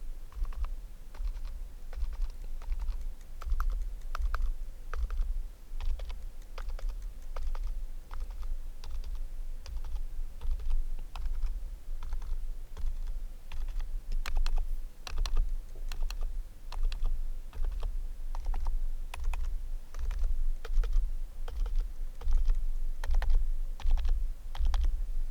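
Typing on a COX XM108 membrane keyboard: a continuous, irregular run of soft key presses, each with a dull low thump beneath the click.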